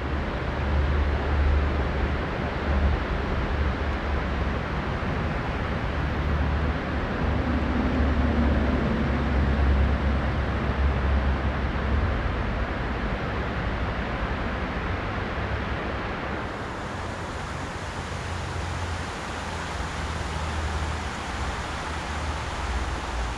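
Mountain river rushing over rocks: a steady noise with a deep low rumble underneath. About sixteen seconds in the hiss turns duller.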